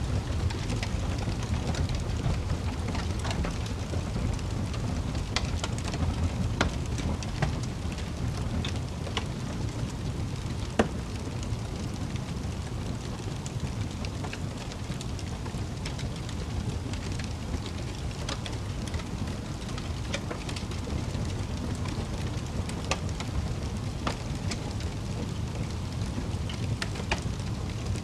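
Wood fire in a fireplace crackling: scattered sharp pops and snaps over a steady low rumble, with one louder pop about eleven seconds in.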